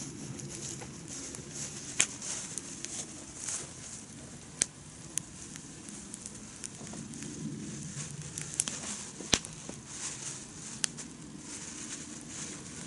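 Wood campfire burning steadily with a soft hiss and crackle, and half a dozen sharp pops scattered through it.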